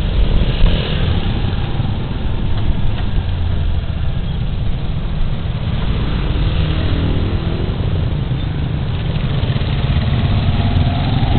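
Suzuki Burgman Street 125 scooter's single-cylinder engine running at low speed, a steady low rumble mixed with road noise.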